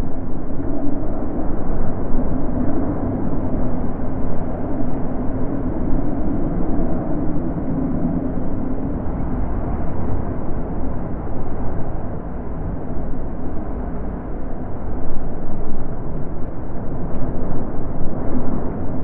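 Natural wind blowing, a low, dull rushing that swells and eases in gusts and grows louder again near the end.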